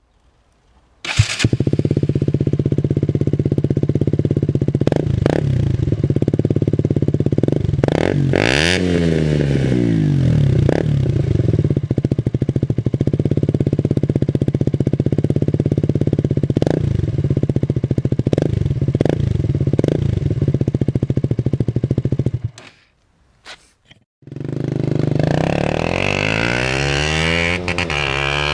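KTM 125 Duke's single-cylinder four-stroke engine, on its original exhaust but not sounding stock, starting abruptly and idling steadily, with one short rev blip. Near the end it cuts out for a couple of seconds, then comes back and revs up.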